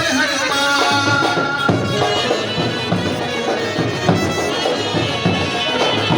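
Procession band music: reedy wind instruments play a held, wavering melody over steady drum beats.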